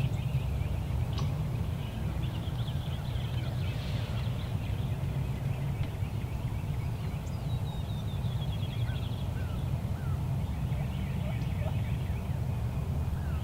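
Wild turkey gobbling, with songbirds chirping and a quick trill over a steady low rumble.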